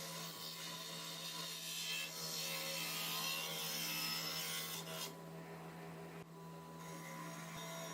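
Continuous abrasive scraping and rubbing, as of filing or sanding rust off a metal part, over a constant low hum; the scraping eases about five seconds in.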